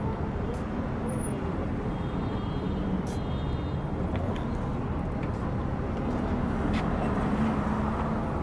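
City street traffic: a steady rumble of cars and buses passing, with a few light clicks.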